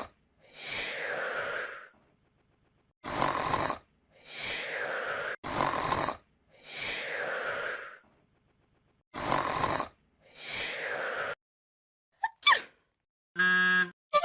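Cartoon snoring sound effect: four cycles of a short rasping snore in, each followed by a longer whistling breath out that falls in pitch. Near the end comes a quick rising glide and a short buzzy tone.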